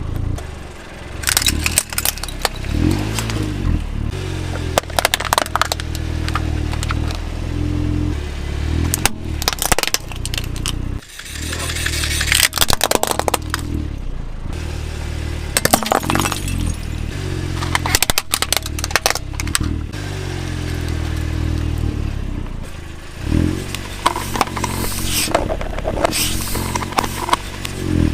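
A car's engine running low and steady while its tyres roll over and crush brittle objects, giving a long string of sharp cracks and crunches, some bunched in quick clusters.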